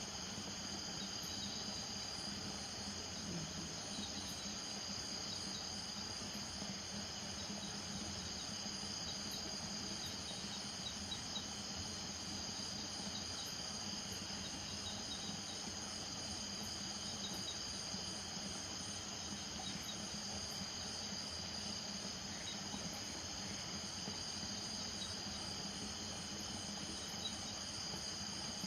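Night chorus of crickets trilling steadily at several high pitches, with a steady low drone underneath.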